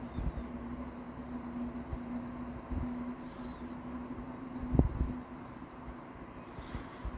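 Outdoor countryside ambience: low rumbling and uneven thumps, a steady hum that fades out about five seconds in, and small birds chirping, with one louder thump just before the hum fades and a short high whistle after it.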